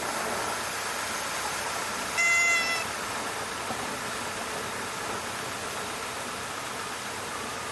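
Cessna 152 stall warning horn gives one short, high, reedy toot about two seconds in, over the steady drone of the engine and airflow in the cockpit. The horn sounding in the landing flare means the wing is near the stall just before touchdown.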